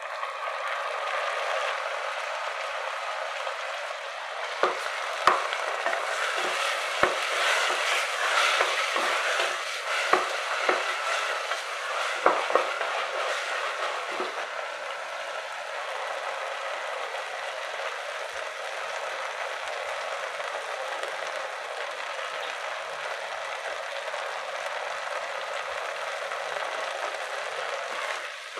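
Chopped tomatoes and onions frying and sizzling in a stainless steel pressure cooker while being stirred with a wooden spatula. A run of sharp knocks and scrapes of the spatula against the pot comes in the first half, then the sizzling goes on steadily.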